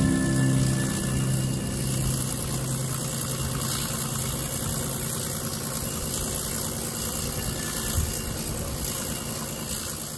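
Acoustic guitar music fades out in the first second or two, leaving the steady running noise of the train, which tapers off near the end.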